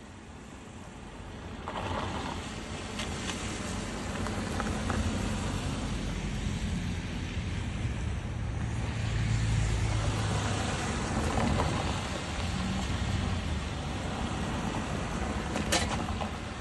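A car on the road in heavy rain: a steady rushing noise of rain and wet road over a low engine hum, swelling about two seconds in, with a sharp click near the end.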